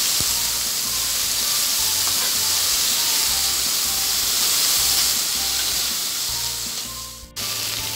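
Chilies, garlic, scallions and tomato sizzling in hot oil in a wok as they are stir-fried with a metal spatula. The sizzle is steady, then fades and briefly drops out near the end.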